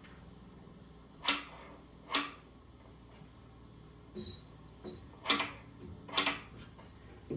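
Sound of a wooden hand loom weaving: sharp clacks of the beater and shuttle, coming in pairs about a second apart with fainter knocks between.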